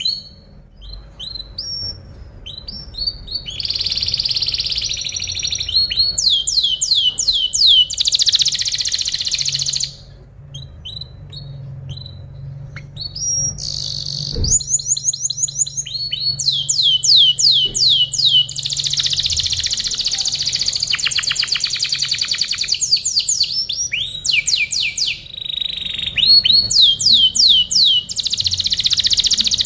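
Domestic canary singing a long song: phrases of rapid trills and quick runs of repeated high, falling notes, broken by short pauses.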